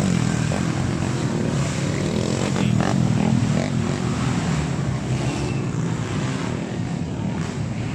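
Honda XRM underbone motorcycle engines running at race pace in open-cc motocross, a steady engine drone with wind noise on the microphone.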